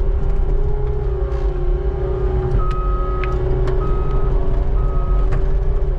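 Skid steer engine running steadily while its back-up alarm beeps three times, about one beep a second, starting about halfway through.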